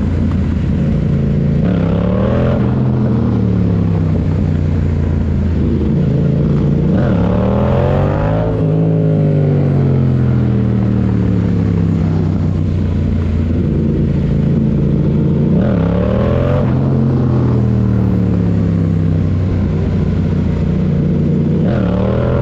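Motorcycle engine revved hard four times, each time rising quickly in pitch and then winding down slowly as the throttle comes off.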